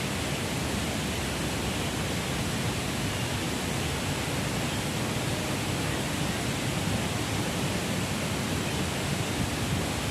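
Strong wind rushing steadily, buffeting the microphone with an uneven low rumble.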